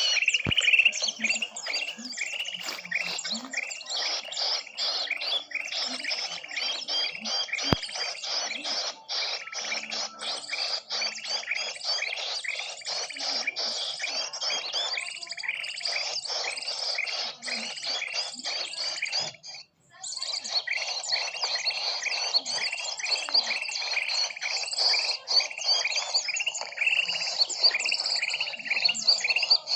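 Bird-lure recording of many small birds chirping and calling together, a dense, rapid, overlapping chatter, high-pitched. It breaks off for a moment about two-thirds of the way through, then resumes.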